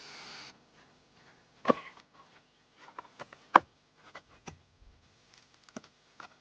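Ice blocks being knocked and trimmed: a faint steady hiss stops about half a second in, then a series of sharp, irregular knocks and clicks, the loudest about three and a half seconds in.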